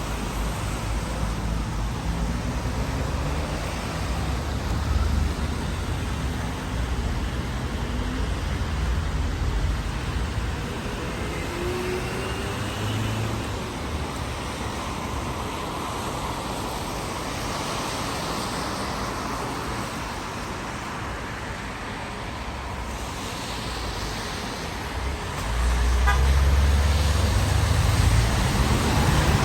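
Road traffic on a rain-wet street: a steady hiss of tyres on the wet road with car engines going by, and a louder, low vehicle rumble starting near the end.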